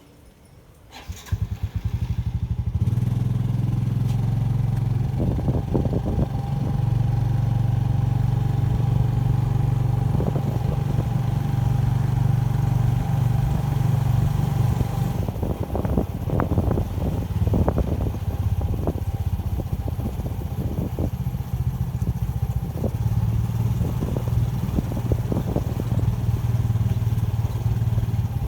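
Motorbike engine starting about a second in, then running steadily as the bike rides along, with frequent short rattles and knocks from about halfway on.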